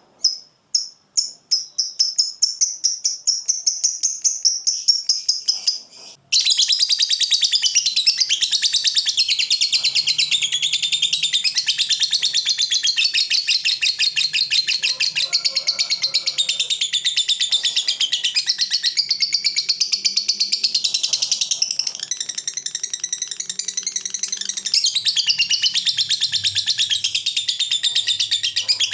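Lovebird giving its 'ngekek' call: sharp high chirps that come faster and faster and run into a trill. After a brief break about six seconds in, a long unbroken stretch of rapid, high chattering trill follows.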